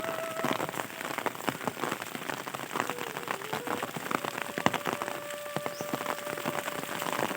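Rain falling, with many separate drops striking close by on top of a steady hiss.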